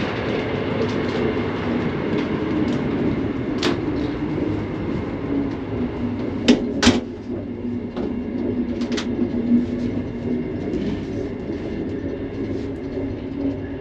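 Interior running noise of a Sapsan high-speed train at speed, a steady rumble and hum. A few sharp clicks and knocks come from the toilet compartment's door and latch, the loudest two close together about halfway through.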